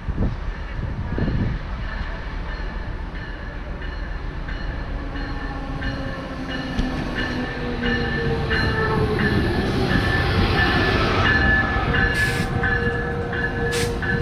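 A train running past on the rails, growing louder, with steady tones over the rumble and regular clicks of wheels over the rail joints from about the middle on.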